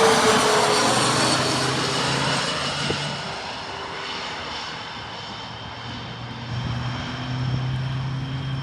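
Airplane passing close by, its engine note falling in pitch as it moves away and fading over several seconds. A lower, steady hum comes up near the end.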